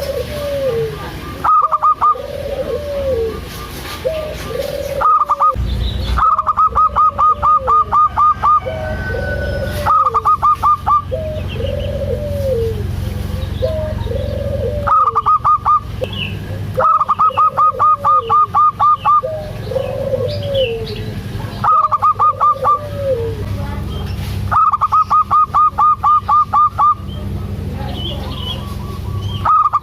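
Zebra dove (perkutut) cooing, a short arched coo about once a second. Loud bursts of rapid, evenly spaced higher notes come in between every few seconds, each burst lasting one to two and a half seconds, over a steady low hum.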